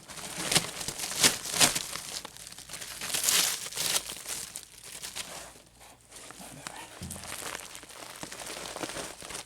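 Flexible HVAC duct with a wire coil crinkling and crackling as it is handled and worked onto another duct. There are sharp crackles in the first few seconds, then softer rustling.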